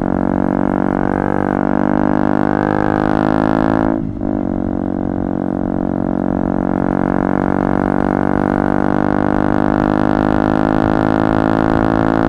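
KTM Duke 125's single-cylinder four-stroke engine running at high, steady revs through a Radical Racing GP Carbon Black exhaust with its dB-killer out, loud with a droning tone. The revs briefly dip and pick straight back up about four seconds in.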